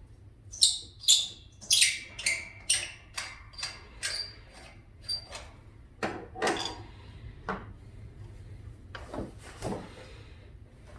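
Irregular metal clinks, taps and knocks of a replacement electric starter being handled and fitted onto its mounting studs, thickest in the first few seconds and sparser after.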